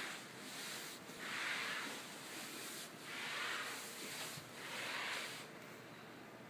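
Gas fireplace running with a steady hiss. The hissing swells and fades four times, about a second and a half apart, then settles to the even hiss about two-thirds of the way through.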